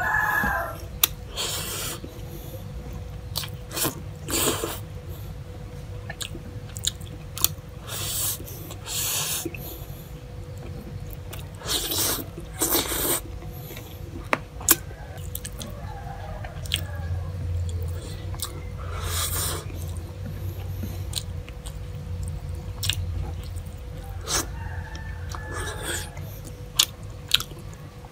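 Close-miked chewing of rice and fish: wet mouth and lip-smacking sounds with many sharp clicks and short bursts scattered unevenly, over a faint steady hum.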